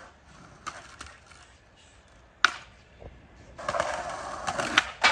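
Skateboard sounds: a sharp clack of the board about halfway through, then wheels rolling on pavement with scattered clicks from about three and a half seconds in.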